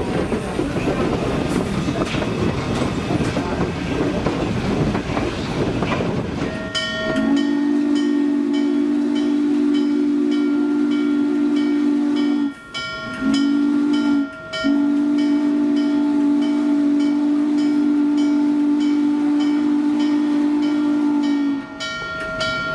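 Norfolk & Western 611 steam locomotive's Hancock three-chime whistle blowing a steady chord: a long blast, a short one and a longer one. Before it comes the rumble of the train running on the rails.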